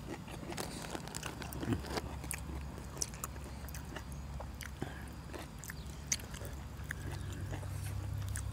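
Close-up chewing and biting of green vegetable stalks, with many small irregular clicks and crunches from the mouth, over a steady low hum.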